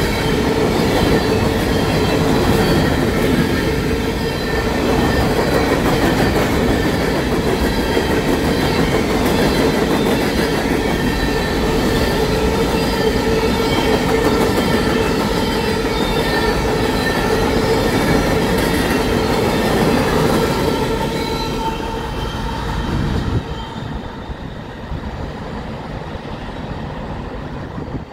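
A long train of empty steel coal hopper cars rolling past at track speed: steady wheel-on-rail noise and clatter with a high metallic ringing from the wheels. Near the end it falls off sharply to a quieter rumble as the end of the train moves away.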